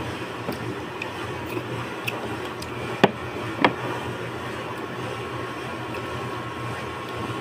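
Eating sounds over a steady background hum: scattered small clicks, then two sharp clicks about three and three and a half seconds in, like a spoon knocking against a bowl.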